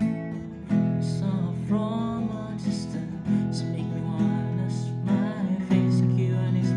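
Acoustic guitar strummed in a down-up rhythm, playing a simple four-chord progression of E, B5, D♭5 and A. The chord changes about every two and a half seconds.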